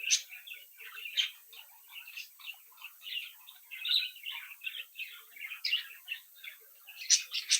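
A group of budgerigars chattering and warbling: a dense, unbroken stream of short chirps, with a few louder, sharper calls standing out, twice close together near the end.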